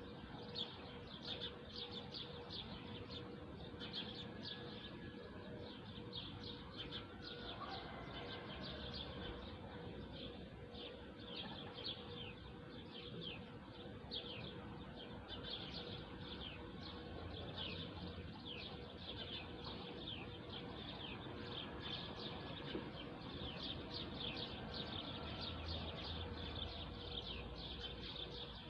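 Many small birds chirping together in a dense, continuous chorus of short, quick descending chirps. A faint steady hum sits underneath.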